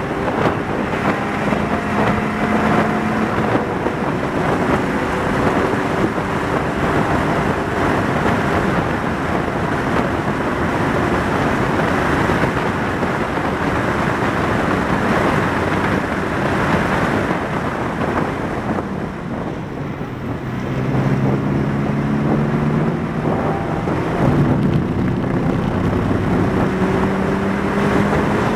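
A 2019 Porsche 718 Cayman GTS's turbocharged 2.5-litre flat-four engine pulling at full throttle at high speed, heard from inside the cabin under heavy wind and road noise, its pitch slowly climbing. About two-thirds through, the engine note briefly drops away, then rises again as the car accelerates.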